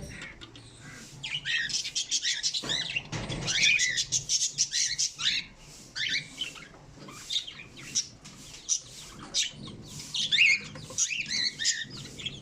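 Pet birds chirping: many short, high, quick calls overlapping one another, with a few clicks among them.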